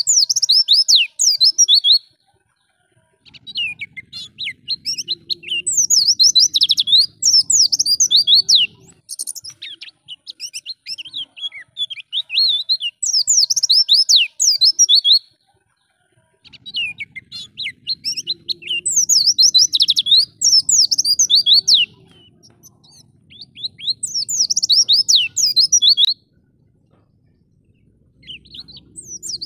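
White-eye (pleci) singing long, rapid phrases of high, quick chirps and twitters, broken by brief pauses of a second or two between bursts.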